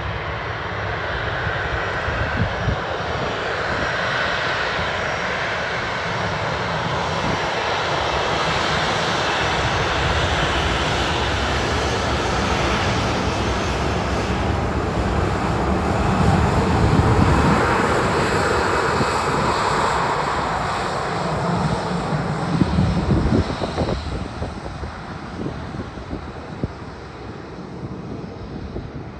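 Jet aircraft passing close by with a loud engine roar. It builds to a peak about halfway through, then fades away with a rough, gusty low rumble.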